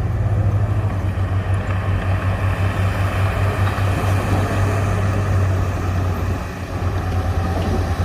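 Heavy diesel engine of a bulldozer running steadily under load with a deep low hum, easing briefly about six and a half seconds in.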